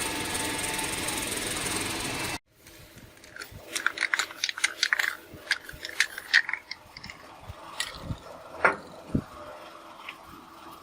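Workshop sounds: a steady machine hum for about two seconds that cuts off suddenly, then a run of scattered metallic clicks and knocks from hand work.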